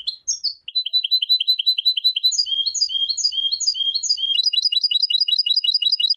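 European goldfinch song in repeated phrases. A fast trill of about eight notes a second gives way about two seconds in to slower slurred notes, about two a second, then about four seconds in to a fast trill again. The song starts and stops abruptly.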